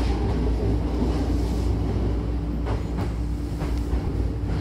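Hankyu electric train heard from inside the car while running: a steady low rumble with a constant motor hum, and a few faint wheel knocks about a second apart.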